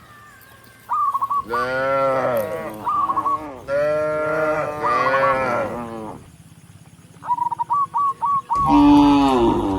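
Cattle mooing: three long moos, each rising and then falling in pitch, one after another.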